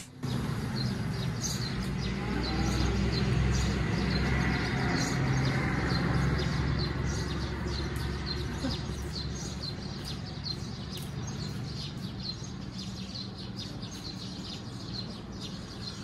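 Small birds chirping: many short, high chirps, over a steady low background rumble.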